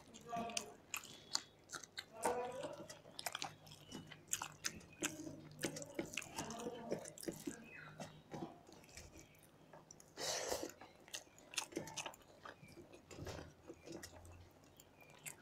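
Two people chewing and eating rice by hand, with many small wet clicks and smacks, and a brief louder rustle about ten seconds in.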